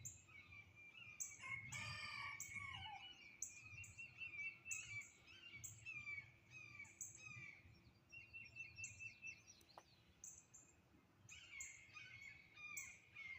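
Several birds calling and singing, faint: many short chirps and high, quickly falling notes, with a brief rapid trill about eight seconds in.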